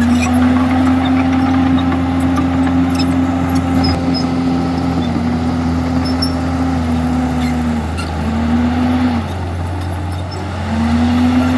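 Komatsu D51EX bulldozer's diesel engine running hard at a steady high speed. Its pitch sags briefly a few times, falls away about nine seconds in and picks back up near the end, as the load and throttle change.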